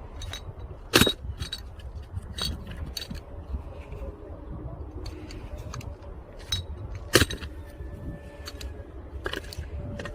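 Axe striking logs as firewood is split by hand: two sharp, loud blows about six seconds apart, with lighter knocks and clinks of wood between them.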